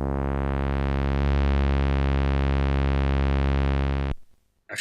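Korg Monotron analog synthesizer holding one steady low bass note rich in overtones, its tone changing slightly about a second in, then cutting off suddenly about four seconds in.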